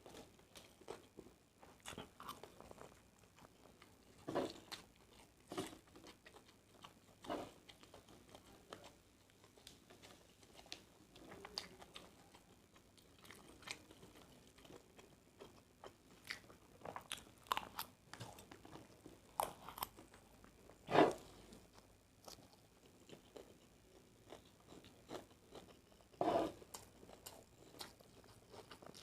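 Close-miked mukbang eating of a large plate of nasi goreng (fried rice): a person chewing and biting, with scattered short, irregular mouth and eating sounds. Two of them, in the second half, are louder than the rest.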